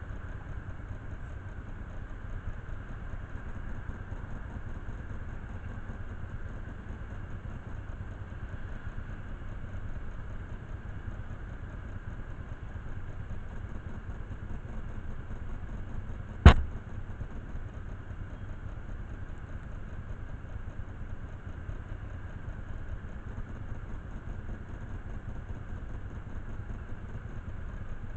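Motorcycle engine idling steadily, with one sharp knock a little past halfway.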